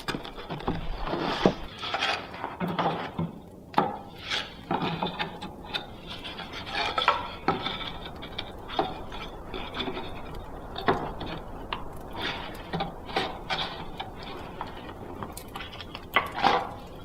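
Irregular clinks, knocks and rattles of hard objects being handled, like dishes and utensils being moved about.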